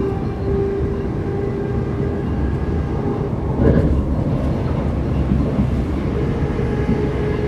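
Cabin noise of a Class 387/1 Electrostar electric multiple unit running: a steady rumble of wheels on rail with a steady motor whine, and a brief louder clunk about halfway through.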